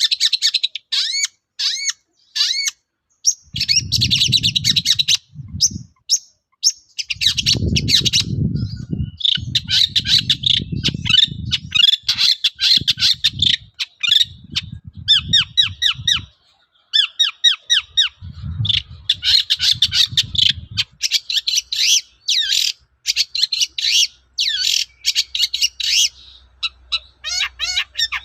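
Long-tailed shrike (cendet) singing loudly in a fast, unbroken stream of harsh chattering notes and quick rising and falling whistles, pausing only briefly. Low rumbles come and go underneath at times.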